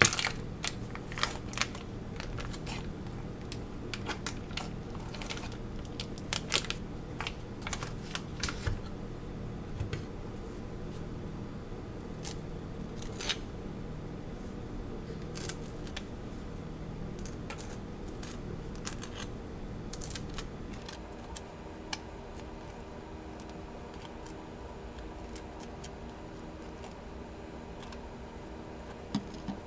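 Scattered clicks and taps from kitchen items being handled during breakfast preparation, busier in the first half, over a steady low hum that changes pitch about two-thirds of the way through.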